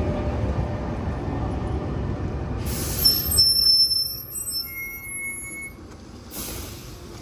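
Gothenburg tram running with a low rumble, then its wheels squealing in high, steady overlapping tones for about three seconds as the rumble fades, with a short hiss at the start and end of the squeal.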